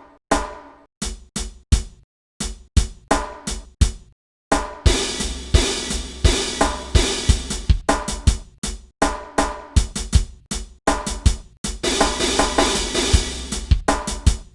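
Drum kit playing a hip-hop groove of kick, snare and hi-hat. The first few seconds are sparse hits with short silences between them; from about four and a half seconds in it becomes a fuller, continuous pattern with a cymbal wash over it.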